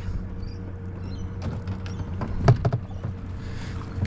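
Scattered light knocks, clicks and creaks of gear being handled on a kayak, the loudest knock about two and a half seconds in, over a steady low hum.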